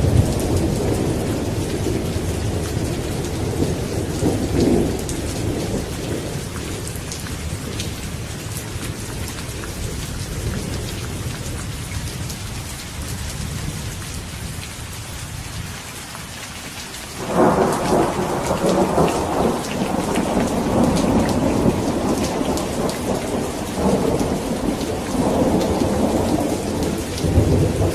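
Steady rain with rolling thunder. The rumble dies down through the middle, then a sharp, loud thunderclap breaks in about two-thirds of the way through and keeps rumbling, with further swells near the end.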